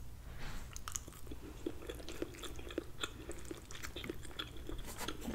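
A person chewing a mouthful of soft cooked cabbage and turkey sausage, with irregular small wet clicks and smacks.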